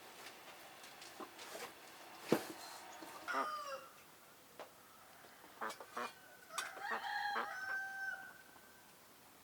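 A rooster crowing in the background: a short falling call about three seconds in, then a longer crow held on a steady pitch near seven seconds. A sharp knock about two seconds in is the loudest sound, with a few lighter clicks around six seconds.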